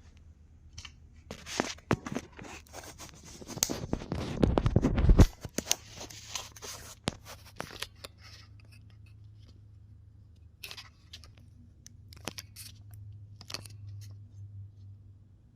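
Clicks and scraping from the 3D-printed plastic gears and frame of a spring-powered toy car being handled and wound. A rasping scrape builds up to a loud peak about five seconds in and cuts off suddenly, followed by a low steady hum with a few scattered clicks.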